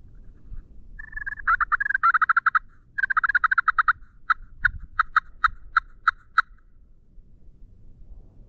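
Turkey calling, loud and close: a burst of fast rattling notes about a second in, then a string of about eight sharp, evenly spaced yelps, roughly three a second.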